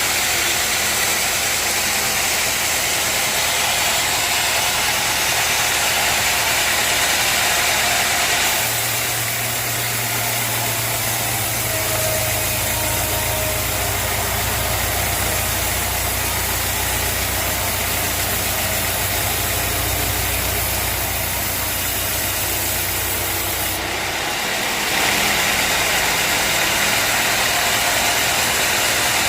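Sawmill machinery running steadily with an engine hum and a constant hiss. The sound shifts about a third of the way in to a deeper hum with less hiss, then shifts back near the end.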